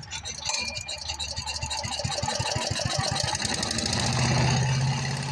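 Predator small gasoline engine on a wood chipper starting up. Its firing strokes quicken over a couple of seconds, then it settles into a steady run about four seconds in. The owner suspects it is running only on fuel already in it and not getting fuel from the tank.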